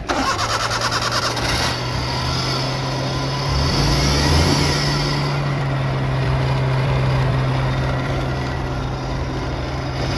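Suzuki Mehran's three-cylinder petrol engine firing up, with fast even firing for the first couple of seconds, then settling into a steady idle.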